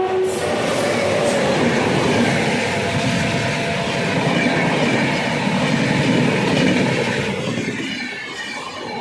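A train horn cuts off just after the start, then a train runs past close by: a loud, steady rumble of wheels and coaches on the track, easing a little near the end.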